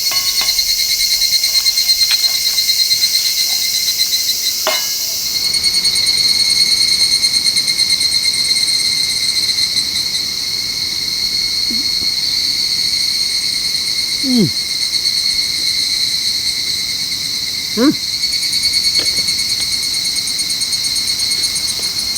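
Insects, likely crickets, trilling steadily in a high, fast-pulsing chorus that grows fuller about five seconds in. A brief questioning grunt from a man is heard near the end.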